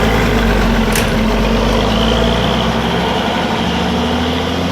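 Diesel engine of a PO Santoso intercity bus running steadily at idle through its exhaust, its low hum easing off about two and a half seconds in.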